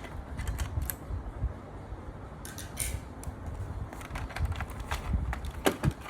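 Scattered light clicks and taps of small plastic parts and connectors being handled during disassembly of a robot vacuum, over a low uneven handling rumble. The clicks cluster near the end.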